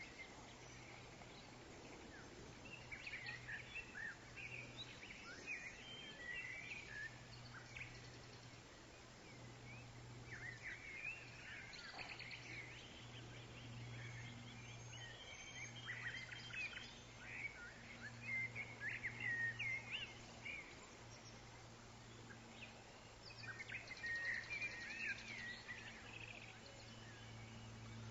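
Several small woodland birds chirping and twittering in quick, high bursts that come in clusters and pause between them, over a faint steady low rumble of background noise.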